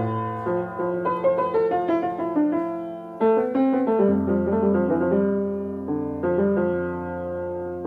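Solo piano music: a melody over held chords, with notes struck in quick runs and a slower passage near the middle.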